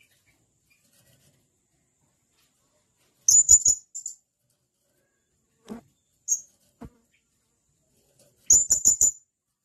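Blue-crowned hanging parrot giving sharp, high-pitched chirps: a quick run of four notes about three seconds in, a couple of single notes, and another quick run of five near the end.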